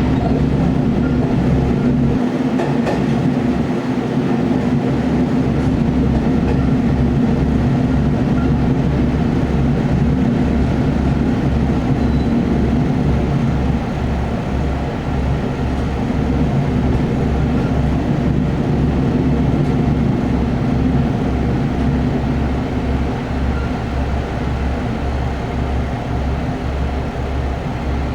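Kumagawa Railway diesel railcar running, its engine droning steadily over an even, rhythmic low pulsing.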